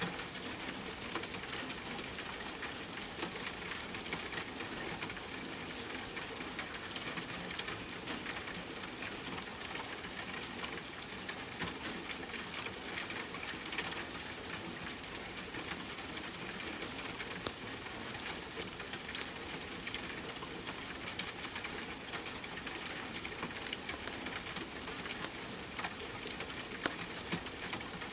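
Steady rain hiss mixed with a crackling fireplace fire, with frequent small pops and clicks scattered through the even noise.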